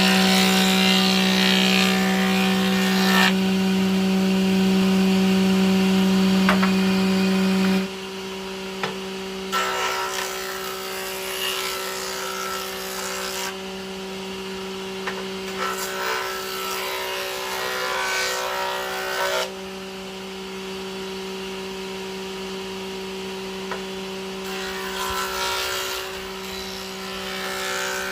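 Electric power tool working wood: a steady motor hum with rasping passes of the tool over the wood. The hum is loud for the first eight seconds, then drops sharply and carries on quieter.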